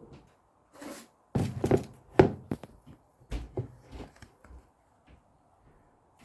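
Irregular knocks and clatter of kitchen utensils against bowl and cake tin while batter is poured and spread, loudest and busiest about one and a half to two seconds in, with one sharp click.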